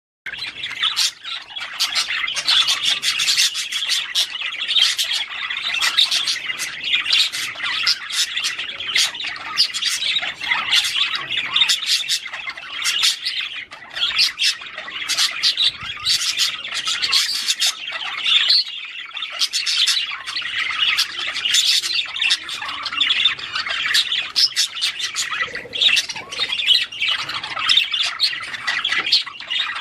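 Several budgerigars chirping and chattering without pause: a dense stream of short, overlapping squawks and chirps.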